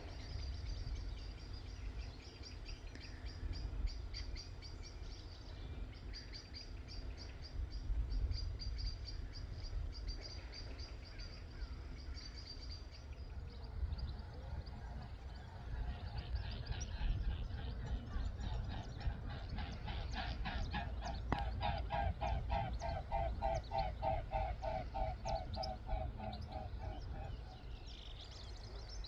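Wetland birds calling over a low wind rumble: a high, rapidly repeated trill for the first dozen seconds, then a fast pulsed chattering series from about halfway that stops shortly before the end.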